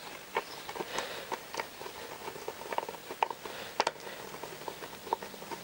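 Light, irregular clicks and taps of small parts being handled and fitted by hand during motorcycle wiring work.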